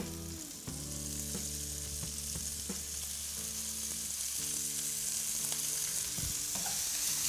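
Halved potatoes and diced pancetta sizzling in hot olive oil in a frying pan, the hiss growing a little louder as the pancetta goes in and its fat starts to render. A few light taps as the pancetta cubes drop into the pan.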